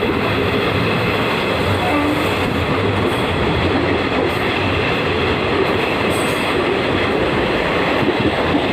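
Passenger train running at speed: a steady, loud noise of steel wheels on the rails and the moving coaches, without a break.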